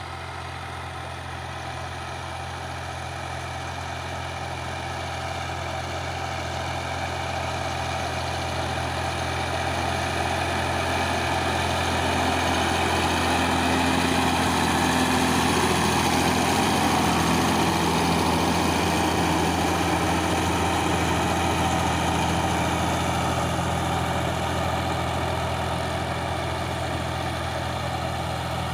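Power tiller's diesel engine running steadily with an even low drone, growing louder over the first half and easing off slightly near the end.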